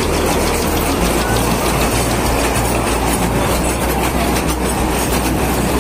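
Small open-carriage mini passenger train rolling past at close range, its wheels running on the rails in a steady rumble.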